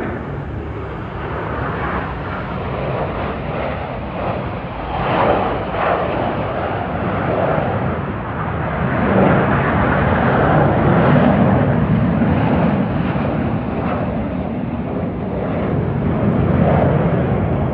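Aermacchi MB-339 jet trainers flying past: a loud jet roar that swells and eases several times, loudest about ten seconds in.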